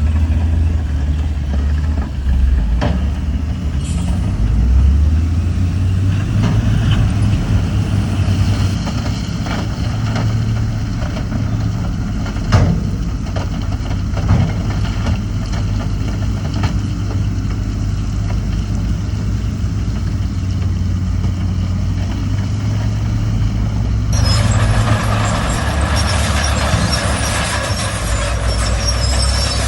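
Heavy diesel engines of dump trucks and earthmoving machines running steadily, with a few sharp knocks. About 24 seconds in, a loud steady hiss sets in over the engine noise.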